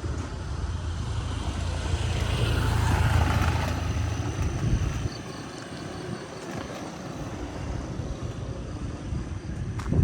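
A motor vehicle's engine passing close by: its low hum builds to a peak about three seconds in, then fades after about five seconds, leaving outdoor background noise. A short knock near the end.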